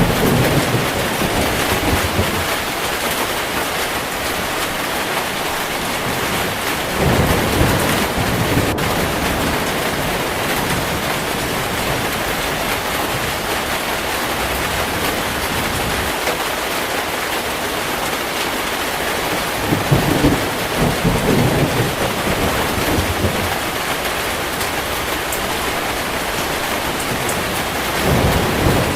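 Steady heavy rain, with low thunder rumbles rolling in at the start, about seven seconds in, around twenty seconds in, and again near the end.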